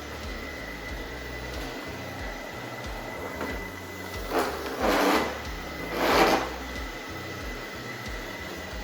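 Noisz S5 robot vacuum running, its motor giving a steady hum with a thin high whine. About halfway through come three short, louder swells of hiss.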